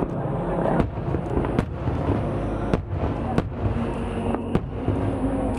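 Aerial firework shells going off in a series of sharp bangs, roughly one a second, over a steady low rumble of background noise.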